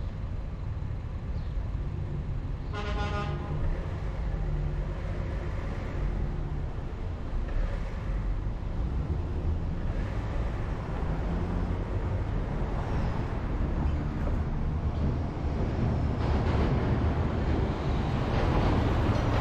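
Steady road and engine rumble of a car on the move, with one short car-horn honk about three seconds in.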